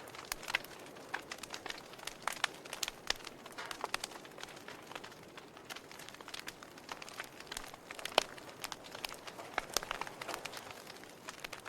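Wood fire crackling: irregular sharp pops and snaps of burning logs over a soft steady hiss, with one louder pop about eight seconds in.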